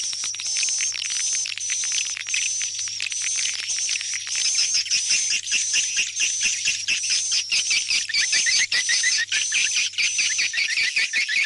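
Swiftlet (burung walet) calls: a fast, rhythmic twittering of high-pitched chirps repeating several times a second. About halfway through the chirps become more clipped and evenly paced. This is the kind of call played to lure swiftlets back to a swiftlet house.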